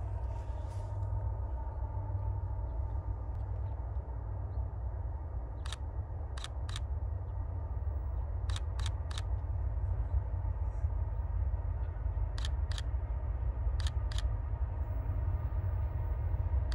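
Low, steady rumble of a distant approaching diesel freight train, growing slightly louder near the end. Short groups of two or three sharp clicks cut through it a few times.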